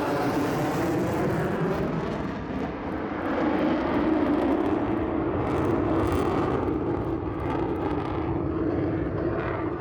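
F-35 fighter jet's single Pratt & Whitney F135 engine in max afterburner during a high-G turn: a loud, continuous jet noise that dips briefly and then swells again about four seconds in.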